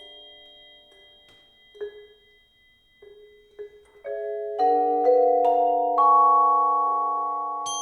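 Mallet-percussion trio playing marimbas and vibraphone. A few soft, sparse short strikes are heard over faint ringing. Then, from about four seconds in, several layered chords strike and ring on, slowly fading, with a high bell-like strike near the end.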